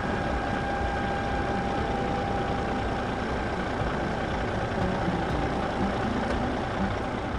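A tractor engine running steadily, with a faint high whine in the first three seconds or so.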